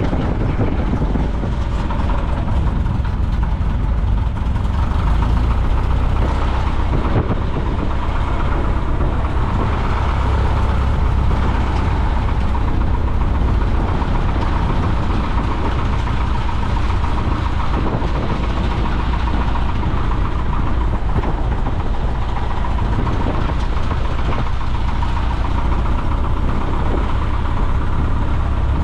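Piper J-3 Cub's engine and propeller running steadily, heard from the cockpit with a deep, unchanging drone and rushing air.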